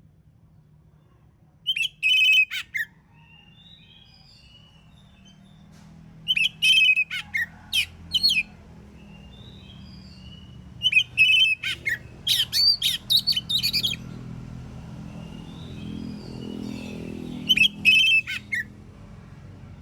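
Oriental magpie-robin (kacer) singing in loud bursts: four phrases of clear whistles and rapid notes, about 2, 7, 12 and 18 seconds in, with fainter chirps between them.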